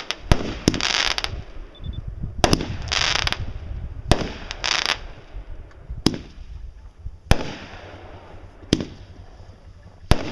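Fireworks going off: a series of sharp bangs at irregular spacing, roughly one every second or two. In the first half, short bursts of hissing crackle come between the bangs.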